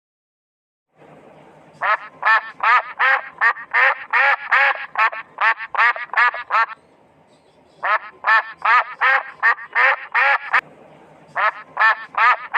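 Duck quacking in rapid runs of loud, evenly spaced quacks, about three a second, with two short pauses between the runs.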